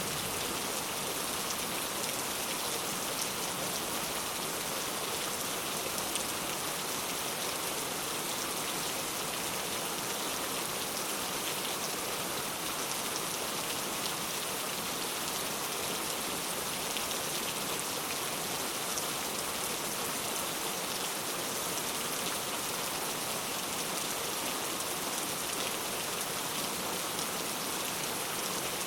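Steady rain falling, an even hiss with many fine droplet ticks.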